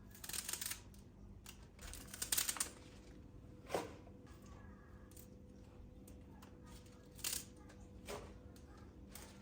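Scattered light clicks and knocks of small objects being handled, the loudest a cluster about two and a half seconds in and a single knock just before four seconds, over a faint steady hum.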